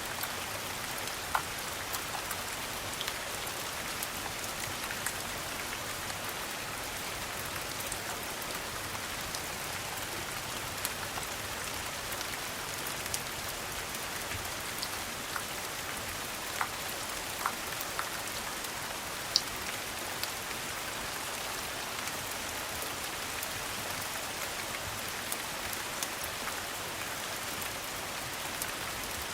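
Steady rain, an even hiss, with scattered sharp ticks at irregular moments throughout.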